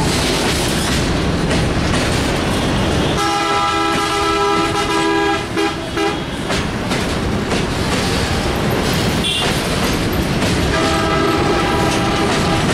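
Freight train of boxcars rolling past close by: a steady loud rumble with the clatter of wheels over the rail joints. A train horn sounds for about three seconds a few seconds in, and sounds again near the end.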